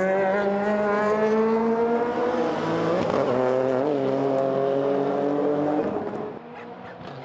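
Rally car engine at full throttle, accelerating through the gears: the pitch climbs, drops at a gear change about three seconds in, climbs again, then the sound fades about six seconds in as the car moves away.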